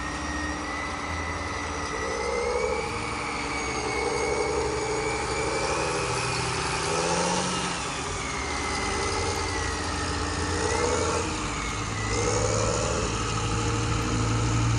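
Toy tractor engine and motor sound running continuously, with a high whine that wavers up and down in pitch and a low hum that gets louder near the end, as the tractor pulls on a tensioned steel cable.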